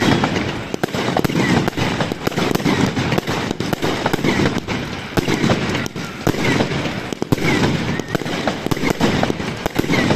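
Fireworks going off without a break: a rapid, uneven run of bangs and crackling cracks, several a second.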